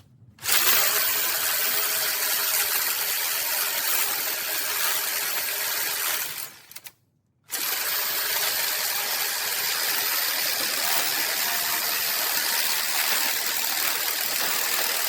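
A power tool run in two long bursts, about six and then eight seconds, with a short pause between. Each burst spins up to a steady high whine over a loud hiss.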